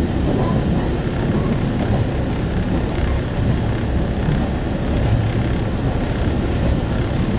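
Steady rumble of a single-car diesel railcar running between stations, heard from inside the cabin: engine drone and wheels on rails, even throughout.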